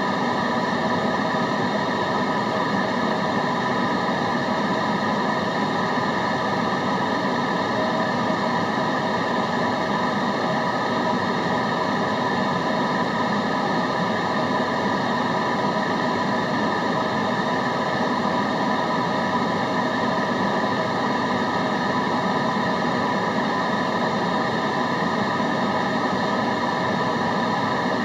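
Steady white-noise track: an even, unchanging rushing noise with faint steady hum tones running through it.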